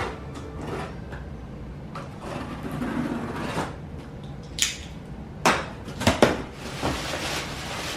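Household handling noises: a few short, sharp knocks and clinks over faint room noise, bunched in the second half.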